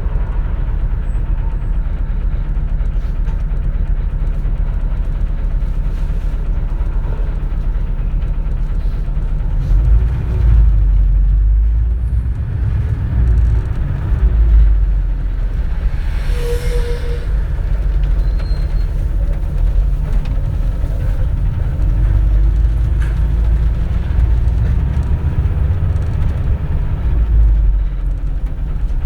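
Running sound of a 2004 CNG (compressed natural gas) city bus, heard from inside the cabin: a steady low engine and road rumble, with the engine note rising and falling about ten seconds in and again past twenty seconds. About sixteen seconds in there is a brief beep and a short hiss.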